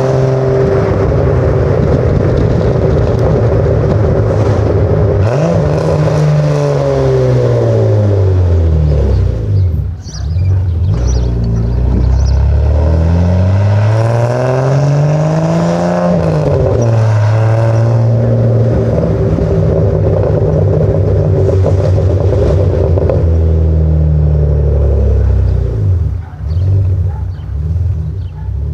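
BMW M20B27 2.7-litre straight-six in a 1986 325e, heard through its cat-delete exhaust. It runs at a steady pitch, twice climbs in revs and falls back off, then settles to a steady run again.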